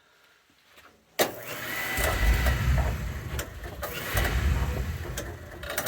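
Oil boiler burner starting up: after a moment of quiet it comes on suddenly about a second in, the burner motor and fan running with a faint steady whine, and a low rumble of the oil flame sets in about a second later, fading and then returning.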